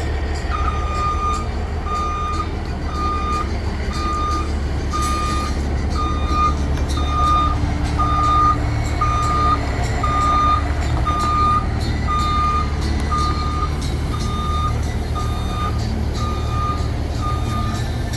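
A reversing alarm beeping steadily about once a second over the steady low rumble of a running diesel truck engine, the Peterbilt 379's Caterpillar C15 inline-six.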